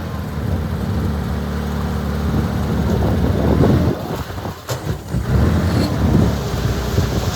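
Heavy diesel engine of earthmoving machinery running: a steady hum that turns into a rougher rumble, with one sharp click a little before five seconds in.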